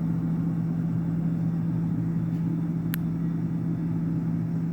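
A steady low hum, with a single short click about three seconds in.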